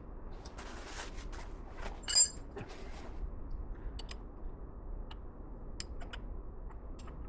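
Metal tools and parts being handled: rustling and light clicks, with one sharp metallic clink that rings briefly about two seconds in.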